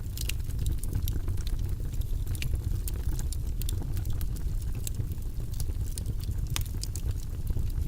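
Fire in a fireplace crackling: frequent sharp, irregular pops and snaps over a steady low rumble of the flames.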